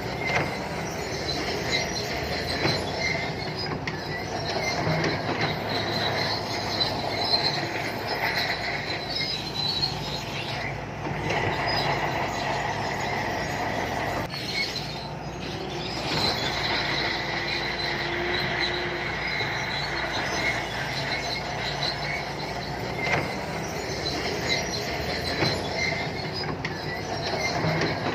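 SANTUI crawler bulldozer working, its diesel engine running steadily under the high, drawn-out squeal and scattered clanks of its steel tracks.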